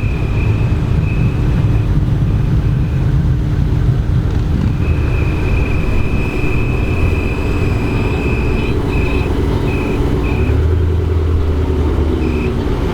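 Car engines running with a deep steady rumble. A high steady tone sounds on and off over it, broken into short beeps after about nine seconds. Near the end an engine's pitch dips and then rises.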